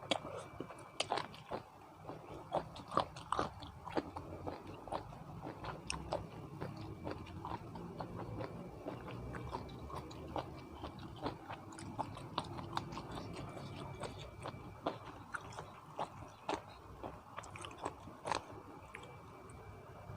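A person chewing and biting mouthfuls of Thai spicy seafood papaya salad close to the microphone: wet chewing with many small, sharp crunches and clicks at an irregular pace.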